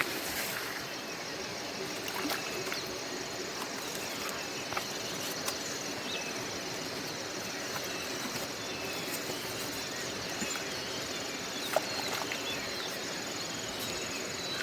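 Steady rush of river water with a thin high trilling of insects over it, and a few faint clicks and knocks.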